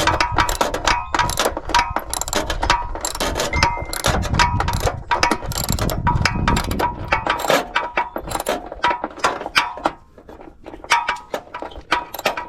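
Hand ratchet wrench clicking rapidly in quick strokes, with metal clinking, easing off about ten seconds in.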